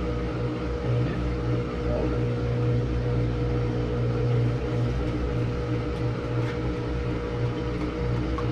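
Samsung washing machine running its spin cycle: a steady motor hum with a constant low drone and a fainter higher tone.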